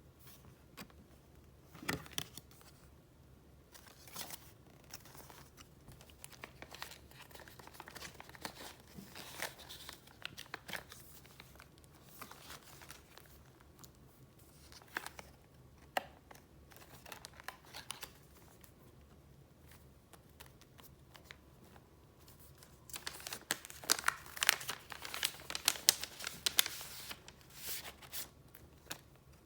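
Paper being handled, rustling and crinkling in irregular strokes with small crackles. Near the end the rustling turns busier and louder for several seconds.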